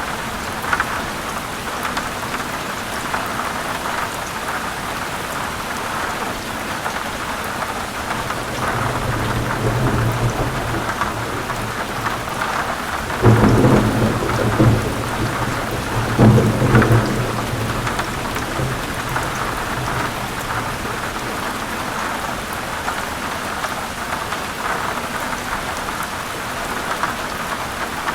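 Steady heavy rain falling on forest leaves, with thunder rumbling low underneath; about a third of the way through the rumble swells into two loud thunderclaps a few seconds apart, then fades back to rain.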